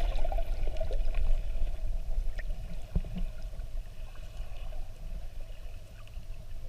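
Sea water sloshing and gurgling around a boat after a jump into the water, over a steady low rumble, fading gradually.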